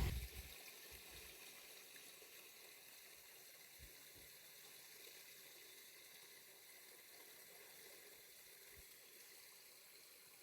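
Near silence: a faint, steady hiss of running water, with a few soft low thumps.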